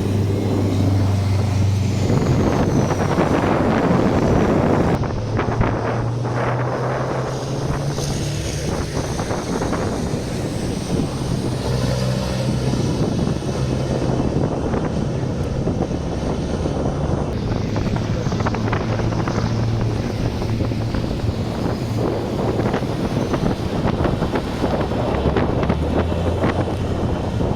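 Race trucks' engines running with steady low tones that shift in pitch now and then, under heavy wind noise on the microphone.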